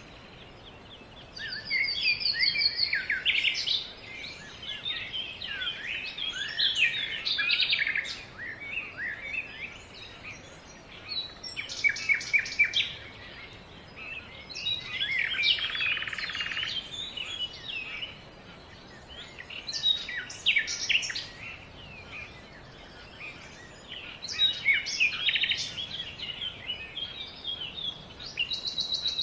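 Songbirds singing: phrases of chirps, quick trills and whistled notes, several voices overlapping, with short pauses every few seconds.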